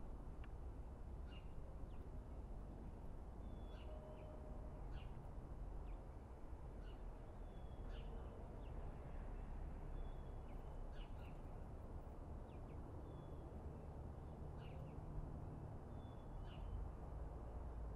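Outdoor ambience: a small bird giving short, sharp chirps over and over, roughly one a second, over a low steady rumble.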